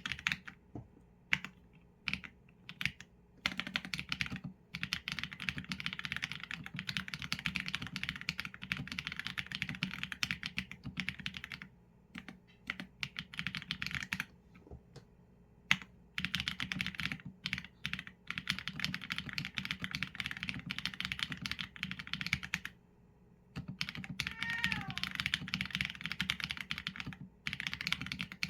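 Typing on a Qsenn A75 mechanical keyboard with Leobog Graywood v4 linear switches and PBT keycaps: rapid key clacks in runs, broken by short pauses.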